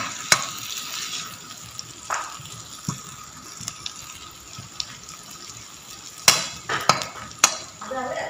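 Sliced shallots, ginger and garlic sizzling in oil in an aluminium wok while a metal ladle stirs them, the ladle clinking against the wok now and then, most sharply a few times near the end.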